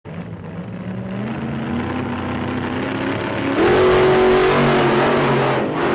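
Car engine revving. Its pitch climbs about a second in, then it jumps louder with a further rise partway through and holds there before easing near the end.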